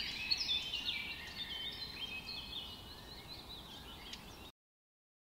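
Songbirds chirping and whistling, many short overlapping calls over a faint hiss, fading gradually and then cutting off abruptly about four and a half seconds in.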